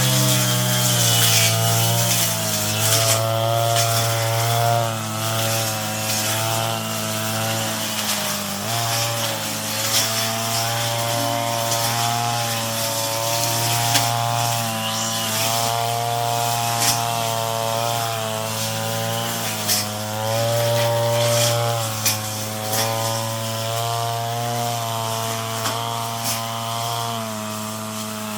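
Brush cutter engine running under load while cutting weeds, its pitch wavering up and down as the blade bites, with frequent sharp ticks.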